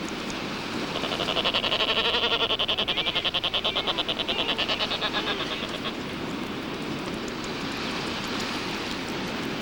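A mollymawk (albatross) giving a rapid, pulsed, rattling call for about five seconds, starting about a second in, over a steady rushing background.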